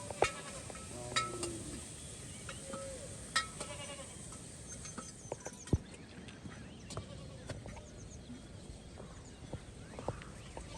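Livestock bleating a few short times, with scattered sharp clicks and knocks.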